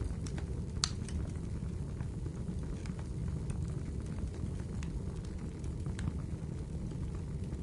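Wood fire burning in a fireplace: a steady low rumble of flames with scattered crackles and pops from the burning wood, one sharper pop just under a second in.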